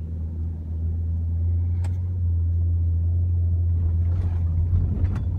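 Car engine running with a steady low rumble, heard from inside the cabin, with a sharp click about two seconds in and another near the end.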